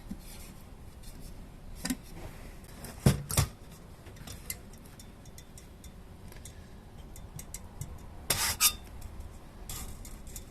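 Hard objects being handled: clinks, knocks and light scraping. There are a close pair of sharper knocks about three seconds in, another cluster at about eight seconds, and small ticks between.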